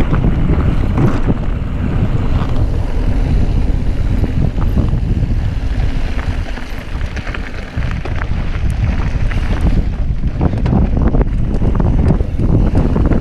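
Wind buffeting the microphone of a camera riding along on a mountain bike at speed, over tyre noise on a dirt trail, with scattered clicks and rattles from the bike. The noise eases briefly about seven seconds in.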